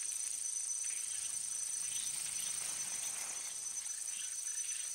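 Steady, high-pitched insect chorus, crickets trilling without a break.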